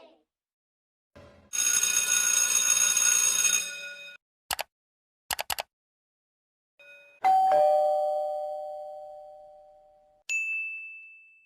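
A string of separate sound effects. First comes a dense ringing bell sound lasting about two and a half seconds, then a few short clicks. Then a two-tone doorbell chime plays a higher note followed by a lower one, each dying away slowly, and near the end a single high ding fades out.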